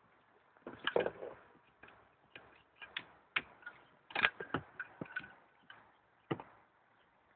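Scattered, irregularly spaced clicks and knocks, a dozen or so sharp taps with quiet gaps between them.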